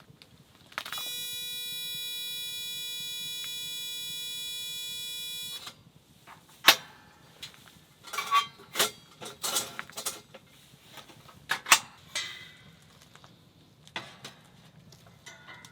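An electronic buzzer tone, held steady for about five seconds, then a run of sharp clicks and knocks.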